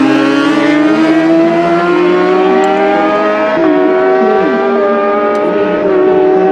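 Racing motorcycle engine pulling hard at high revs, its pitch climbing steadily, with a sharp upshift about halfway through and a smaller step about a second later before it climbs again.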